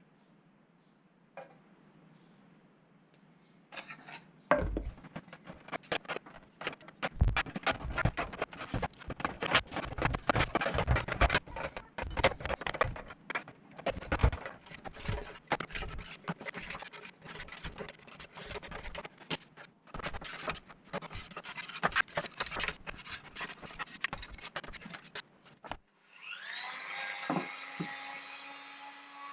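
Hand scraping and rubbing on the old scale's parts, in quick, irregular strokes for about twenty seconds, of the kind made working off rust. Background music starts near the end.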